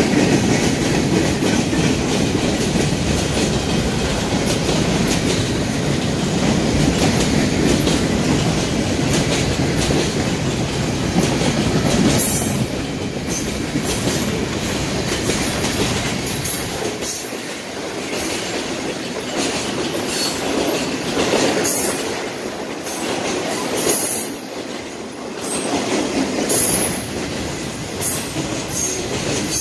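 Freight train's cars rolling past: a steady rumble and clatter of steel wheels on the rails, with short high wheel squeals coming and going from about halfway through.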